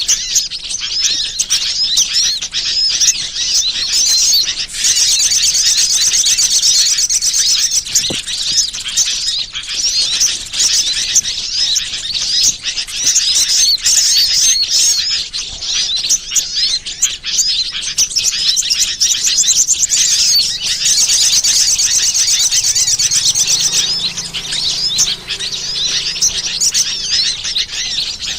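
Bird-lure recording of small birds chirping densely and continuously in high, rapid calls, with fast trilling runs about a quarter of the way in and again near the end.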